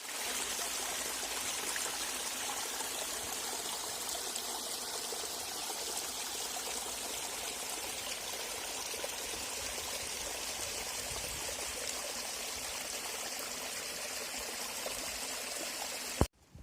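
Running water, a steady even rush and splash, that cuts off suddenly with a click near the end.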